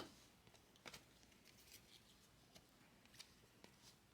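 Near silence broken by a few faint, short clicks and ticks of trading cards being handled and slid past one another.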